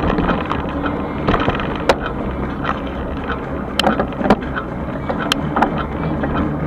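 Electric bike riding along: steady rolling and wind noise with irregular sharp clicks and rattles, as over bumps.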